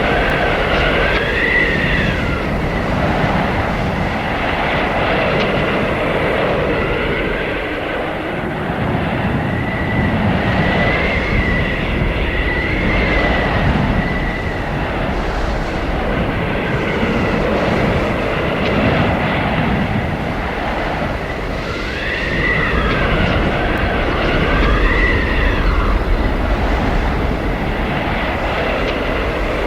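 Blizzard wind howling: a steady rush with high whistling tones that rise and fall in gusts, strongest near the start, in the middle, and again about three-quarters of the way through.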